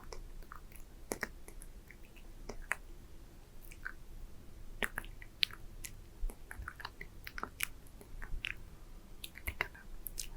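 Close-miked wet mouth sounds: irregular lip smacks and tongue clicks, short and sharp, scattered through the whole stretch.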